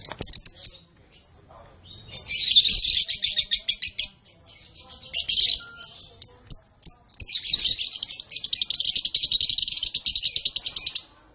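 Canary singing in rapid trilled phrases, with pauses between them and one long unbroken trill of about four seconds near the end.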